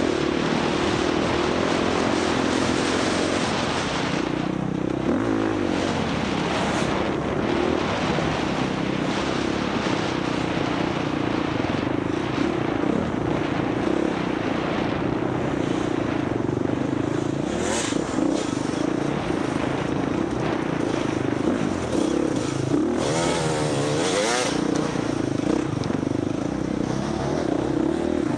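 Husqvarna FX 350 four-stroke single-cylinder dirt bike engine running under race throttle off-road, its note rising and easing as the rider works the throttle, with a constant rush of wind and ride noise.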